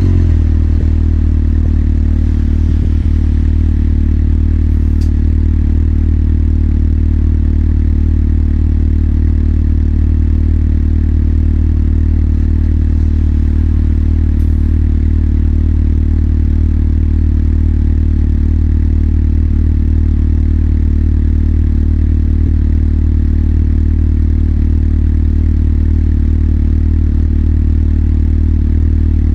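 Motorcycle engine idling steadily, a low even drone with no change in revs.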